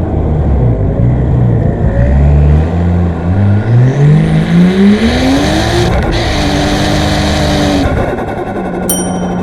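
Nissan Skyline R34's single-turbo RB25DET NEO straight-six under hard acceleration, its revs climbing steadily with a rising hiss. There is a short break about six seconds in, like a gear change, then it pulls again. About eight seconds in it comes off the throttle and settles into a lower steady drone.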